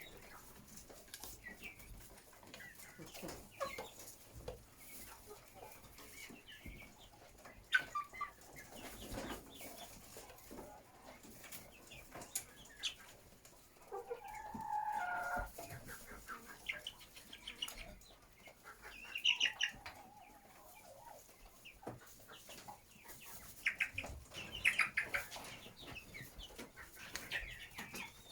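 A flock of chickens clucking, with scattered short calls throughout and one longer call about halfway through.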